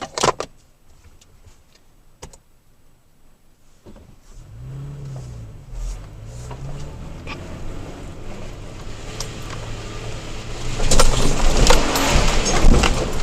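Toyota Tacoma pickup driving through mud on a rough trail: after a few light knocks the engine comes in at about four seconds, revving up and down. From about eleven seconds in the truck grows much louder with rattling and clunking as it bounces over the ruts.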